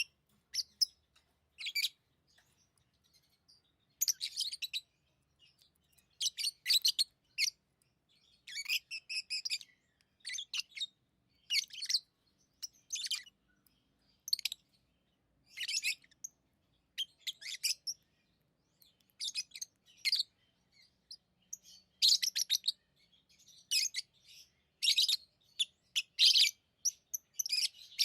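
Pet lovebirds chirping in short, high-pitched bursts that come every second or so, sometimes in quick clusters, with brief silent gaps between.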